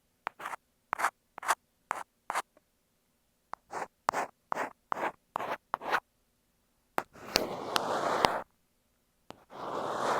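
Ear pick scraping against an earphone microphone: a run of short, quick scratches about two a second, then longer rubbing strokes with sharp clicks near the end.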